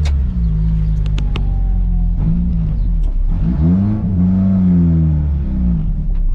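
Yugo's small four-cylinder engine running after 10–15 years of sitting. Its revs climb about halfway through, hold, then drop back, with a few sharp clicks about a second in.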